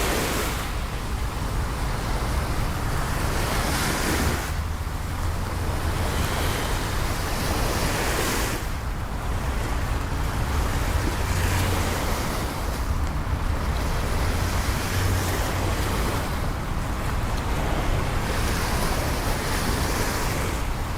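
Steady rain over a wet city street, a continuous hiss with a low rumble underneath, swelling brighter every few seconds.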